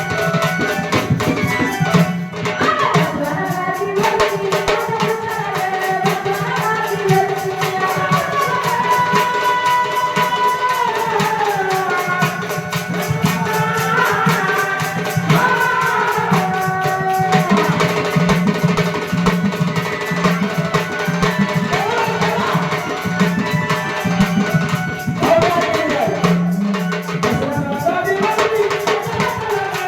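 A woman singing a Marathi devotional song in a gliding, ornamented melody, accompanied by tabla and other hand percussion over a steady low held note.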